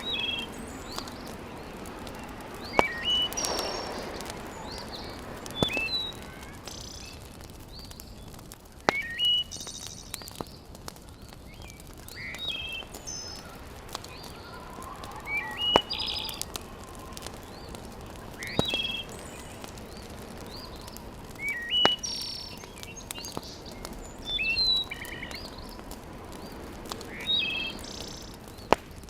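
A bird chirps in short calls that recur about every three seconds, over the steady soft hiss and occasional sharp pops of a wood fire crackling.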